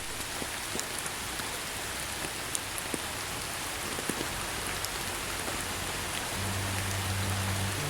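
Steady rain falling on a surface, an even hiss with many scattered sharp drop ticks. Low held notes of calm background music come in near the end.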